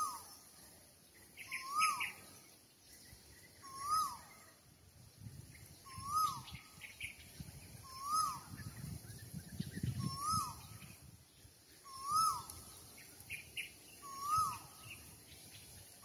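A bird repeating a single whistled call, a note that rises and then falls, about every two seconds, eight times. Faint chirps from other birds come in between.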